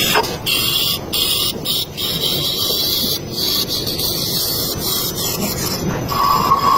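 A machine running: steady mechanical noise with a high hiss that cuts in and out, and a steady whine starting near the end.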